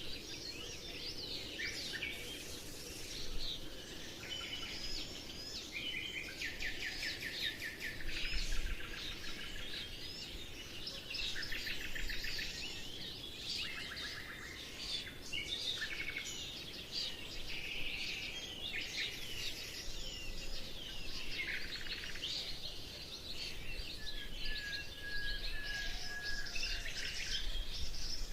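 A chorus of many small birds singing and chirping at once, with overlapping trills, rapid repeated notes and short whistles, over a faint steady background hiss.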